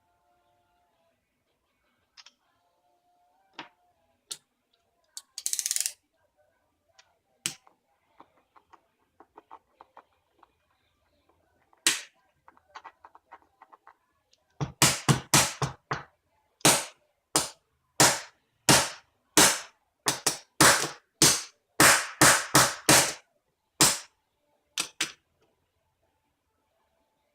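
Sharp blows struck against a tempered glass screen protector on an iPhone: a few single hits with faint ticking between them, then a quick run of about twenty hard strikes at roughly two a second, and two last hits near the end.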